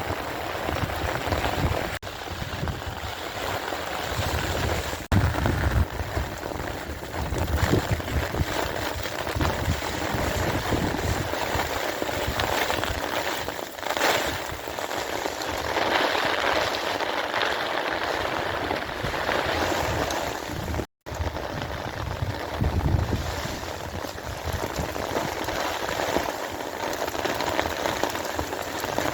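Steady rain falling and splashing on surfaces, picked up by a cellphone microphone, with occasional low rumbles underneath. The sound drops out for an instant about two-thirds of the way through.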